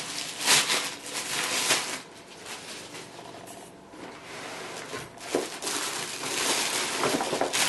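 Packaging rustling and crinkling as vacuum parts are handled and unwrapped, louder at the start and again in the last couple of seconds, with a few sharper crackles.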